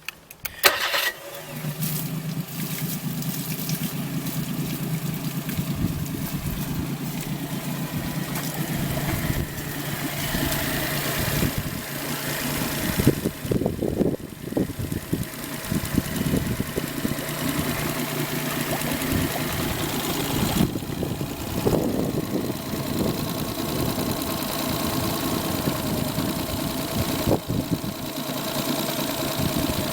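Johnson 40 hp four-stroke EFI outboard motor, a Suzuki-built engine, being started: the starter turns briefly and the engine catches about a second in. It then keeps running smoothly and evenly.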